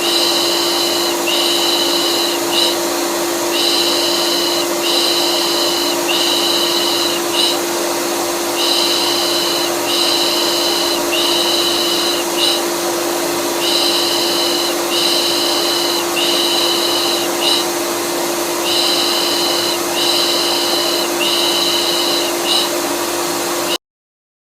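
Vacuum cleaner running steadily, overlaid by a soothing 'pış pış' shushing sound for calming a colicky baby: three long hisses and a short one, repeated about every five seconds. Everything cuts off suddenly near the end.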